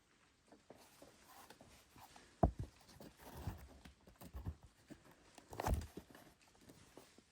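A few dull thumps and knocks at uneven intervals. The loudest comes about two and a half seconds in, and another strong one near six seconds.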